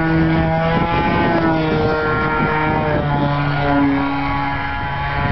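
Radio-controlled model plane's motor and propeller running, its steady pitch stepping up and down several times, with wind buffeting the microphone.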